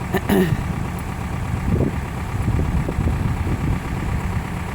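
Farm tractor engine running at idle with a steady low rumble, and a brief voice sound just after the start.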